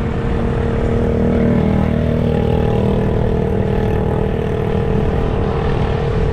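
A vehicle's engine running steadily while under way, with a low road rumble.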